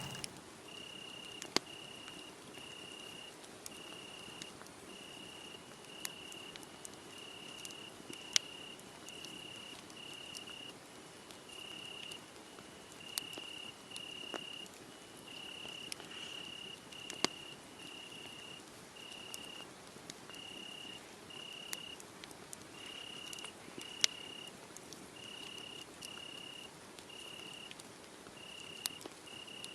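A cricket chirping steadily at one pitch, a little more than one chirp a second, over a wood fire burning with occasional sharp crackles and pops.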